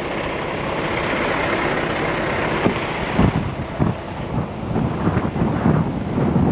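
Steady outdoor rumble of heavy trucks running, with wind on the microphone; from about three seconds in, irregular low bumps and thumps.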